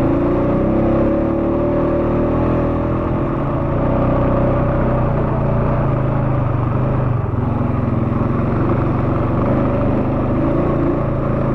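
ATV engine running steadily under load while climbing a steep trail, its pitch shifting slightly near the start and again near the end.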